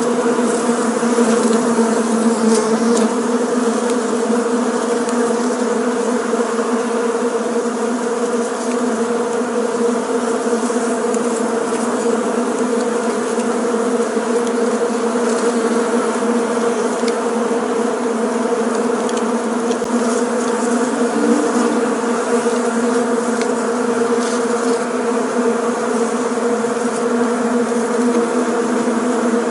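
Bees buzzing steadily in a continuous drone, the hum pitched low with several tones layered over one another.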